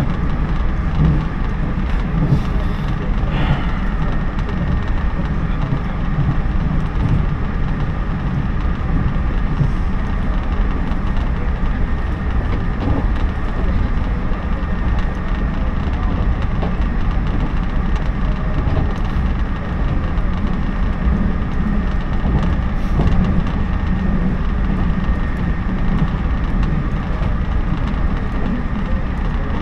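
Interior running noise of a JNR 113 series electric train at speed: a steady low rumble of the wheels on the rails.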